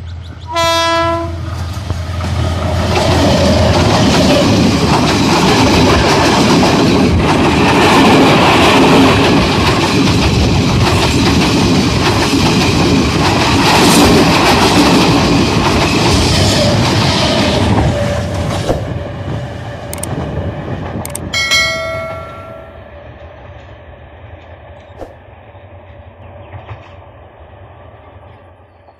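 Sri Lanka Railways S-11 diesel multiple unit gives a short horn blast as it arrives, then passes close by with loud running noise for about fifteen seconds that fades as it moves away. A second, fainter short horn blast comes about 22 seconds in.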